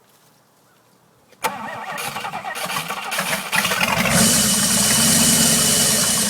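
Ford 427 FE V8 engine cranking and firing about a second and a half in, running unevenly at first, then picking up and running louder about four seconds in.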